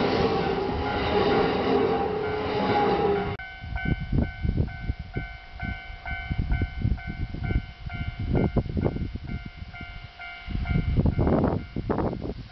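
Kintetsu limited-express train running past close by, a loud rumble of wheels and running gear that stops abruptly about three seconds in. A railway crossing warning bell then rings with a steady, pulsing electronic tone, while wind buffets the microphone. Near the end the rumble of the next train approaching comes in.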